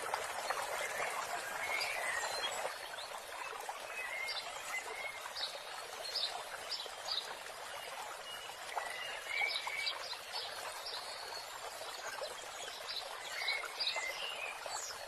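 Small birds chirping in short, scattered calls over a steady rush of running water.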